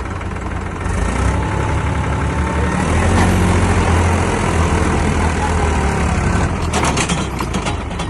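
Sonalika tractor's diesel engine running hard. It rises in level about a second in and works under load as the stuck tractor tries to pull free. A quick series of sharp knocks or clatters comes near the end.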